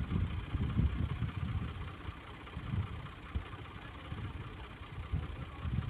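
Tractor engine idling with an uneven low rumble.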